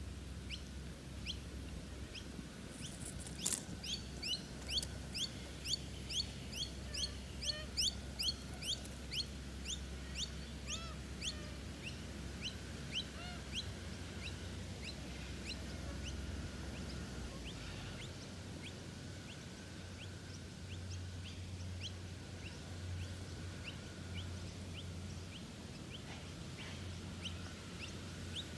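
A bird calling over and over in a long series of short, sharp, down-slurred notes, about two a second. The notes are loudest in the first third, then go on more faintly.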